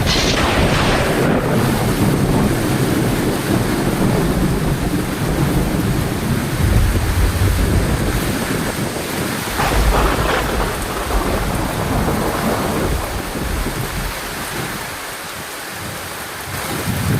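Heavy rain falling steadily under a thunderstorm. A thunderclap cracks at the start, thunder rumbles low around six to eight seconds in, and a second crack comes about ten seconds in.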